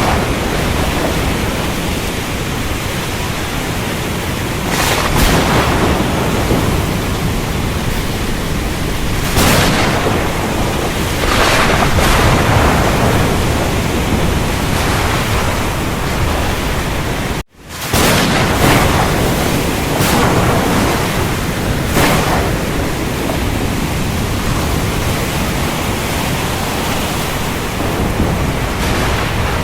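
Thunderstorm: steady heavy rain over a low rumble of thunder, with several brief surges of louder hiss. The sound cuts out for an instant a little past halfway, then resumes.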